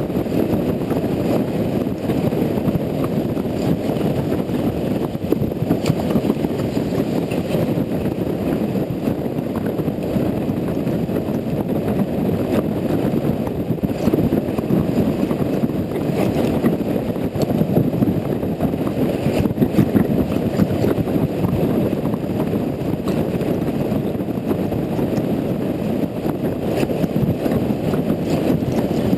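Steady, muffled rumble of a Honda Integra NC750D motorcycle on the move, with wind and road noise and no clear engine note standing out.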